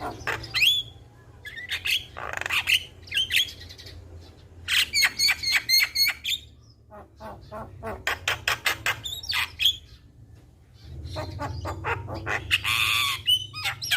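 Javan myna singing in bursts of rapid clicking, chattering notes and short whistles, with a harsh drawn-out squawk near the end, over a steady low hum.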